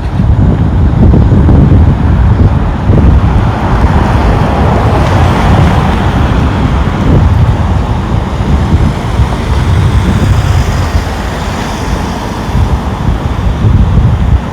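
Wind buffeting the microphone with a low, uneven rumble, while road traffic passes, one vehicle swelling and fading in the middle.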